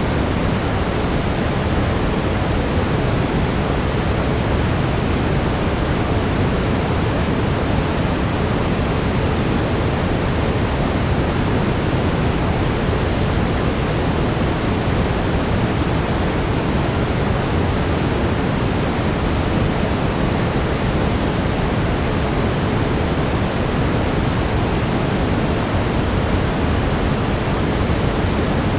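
Steady brown noise: an even, deep hiss weighted toward the low end, unchanging throughout, with a faint steady tone near 432 Hz beneath it.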